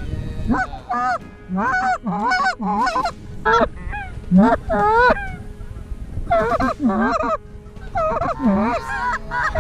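Goose honking: a rapid run of loud honks, more than a dozen, with a short pause a little past halfway.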